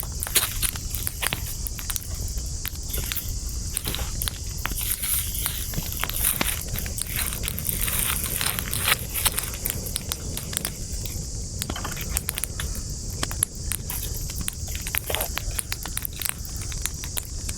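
Campfire of burning wood crackling, with many sharp irregular pops and snaps over a steady low rumble and a constant high hiss.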